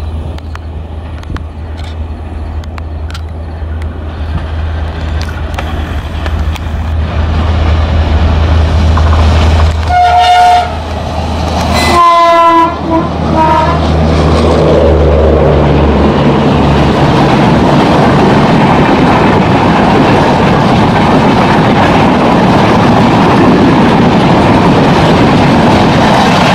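Indian Railways diesel locomotive approaching with a steady low engine drone that grows louder, sounding its horn twice about ten and twelve seconds in. After the locomotive passes, its passenger coaches roll by with a continuous rumble and wheel clatter.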